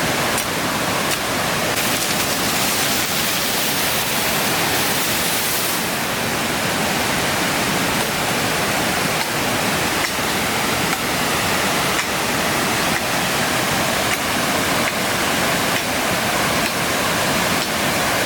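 Waterfall: a steady, loud rush of falling water, its hiss a little stronger for a few seconds near the start, with a few faint ticks.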